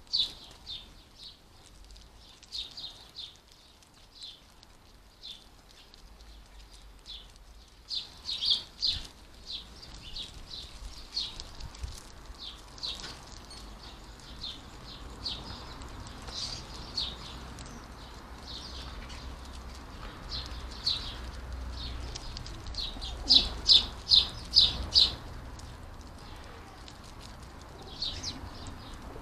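European goldfinches calling: short, high chirps repeated in quick runs, the loudest a run of about six a little before the end, over a faint low rumble.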